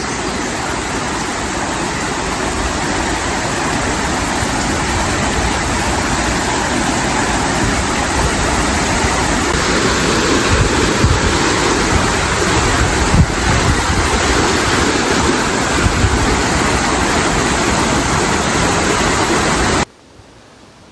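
Rapids rushing: a loud, steady wash of fast water that cuts off suddenly near the end, leaving much quieter outdoor hiss.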